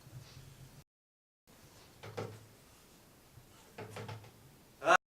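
A few soft knocks and thumps with a low hum beneath, and one much louder knock just before the end. The sound cuts out to dead silence twice.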